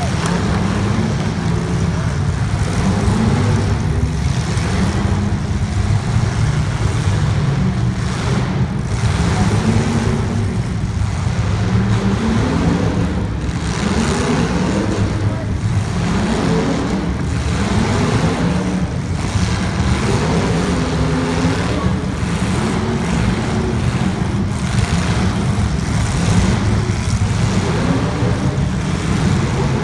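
Several limited-weld sprint car engines racing around a track, their pitch repeatedly rising and falling as the cars accelerate and back off through the turns.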